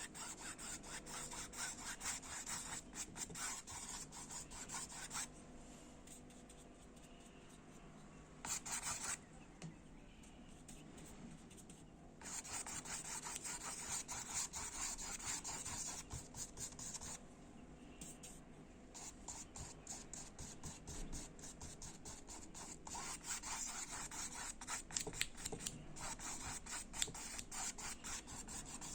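Paintbrush scrubbing paint onto the painting surface in rapid short strokes, stopping for a few seconds several times.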